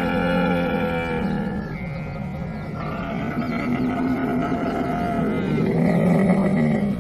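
Camel calling in long, drawn-out vocalizations that shift in pitch, growing louder over the last couple of seconds.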